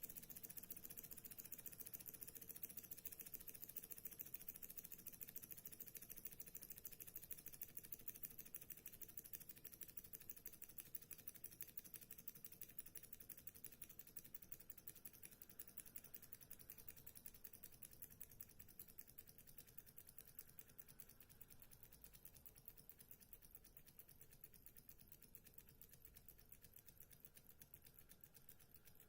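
Small model Stirling engine running, its mechanism giving a fast, even clicking that slowly grows quieter.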